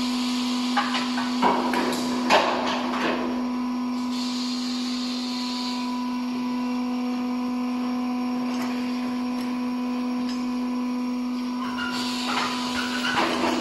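Steady hum of a running workshop machine, with a few sharp knocks in the first three seconds and again near the end, and a brief hiss about four seconds in.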